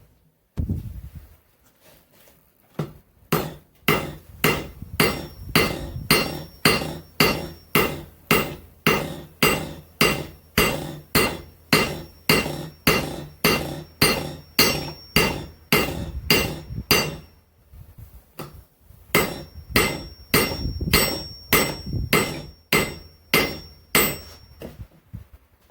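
Hand hammer striking hot spring steel on an anvil, flattening it: an even run of ringing blows, about two and a half a second, that pauses briefly past the middle and then resumes.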